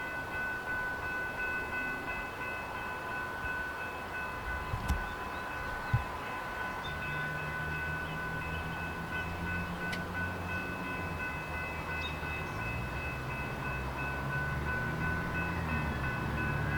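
Metra commuter train's diesel locomotive engine coming up from about seven seconds in and growing louder as the train pulls out, over a steady high-pitched whine, with two short knocks just before.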